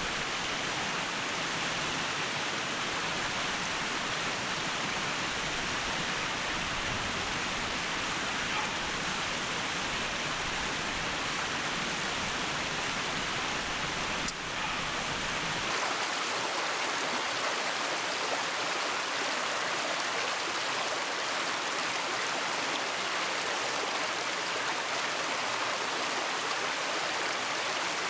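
A mountain stream flowing with a steady, even rush of water. About two-thirds of the way through, its deeper rumble drops away, leaving the higher hiss.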